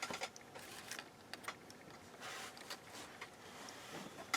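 Faint, scattered light clicks and soft rustles of small parts and tools being handled.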